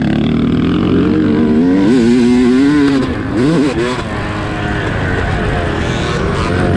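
Dirt bike engine heard from on board while riding, revving and holding through a stretch. About three seconds in it drops off, then blips up quickly in rising bursts as the throttle is worked again.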